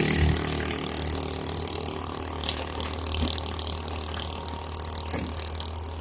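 Heavy-machinery diesel engine running steadily at low speed, with scattered metallic rattles and clicks over it; a louder burst fades away in the first half second.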